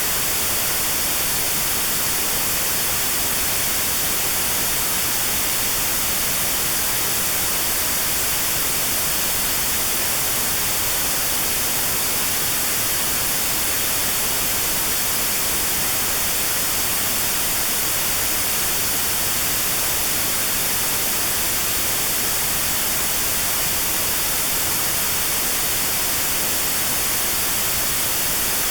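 Steady white noise with a narrow band around 4 kHz notched out: notched sound therapy meant for tinnitus at that pitch. It hisses evenly, with no change.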